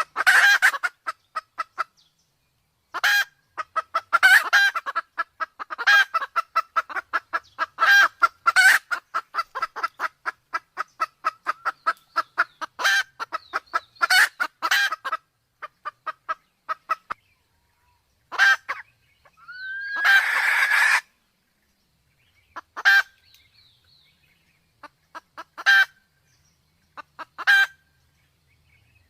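Sumatran red junglefowl clucking in fast runs of short notes, dense for roughly the first fifteen seconds and then in sparse groups. About twenty seconds in comes a single longer, harsher call lasting about a second.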